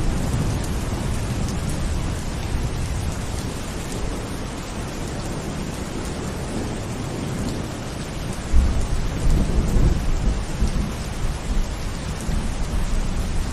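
Steady rain falling, with a low rumble of thunder rolling in about two-thirds of the way through and swelling and fading in waves.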